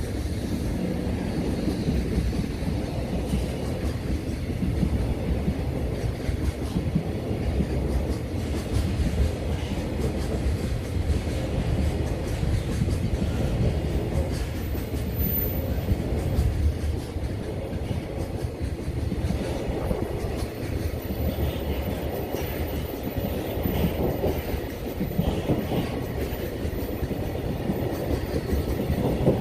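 Freight train passing close by: a steady low rumble of wagon wheels on the rails with a run of repeated clicks, holding at much the same level for the whole stretch.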